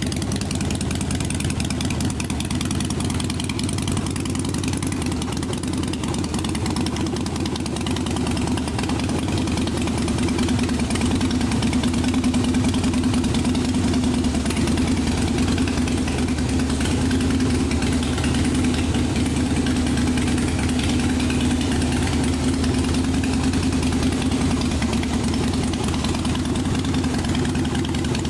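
2012 Harley-Davidson Fat Boy Low's 103-cubic-inch V-twin idling through Rinehart crossback exhaust pipes. It runs steadily and gets slightly louder about ten seconds in.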